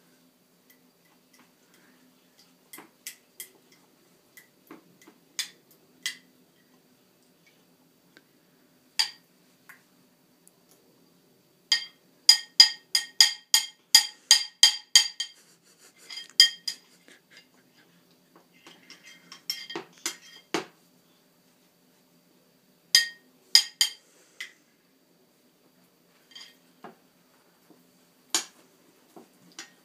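A plate being knocked, giving sharp ringing clinks: a few scattered strokes, then a quick run of about four a second in the middle, then a few more.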